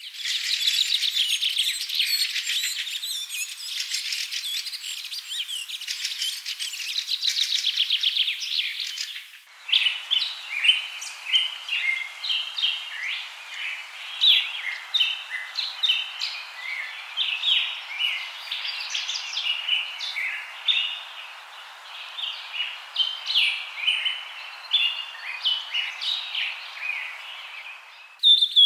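Birds chirping and trilling in a busy chorus, with no low sounds under it. Dense fast trills give way abruptly, about nine seconds in, to many separate short chirps.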